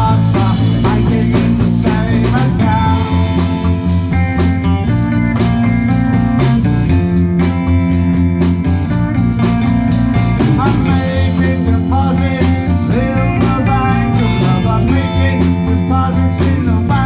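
Live rock band playing a song: electric guitar, bass, drums and percussion, with a steady driving drumbeat under sustained guitar and bass notes.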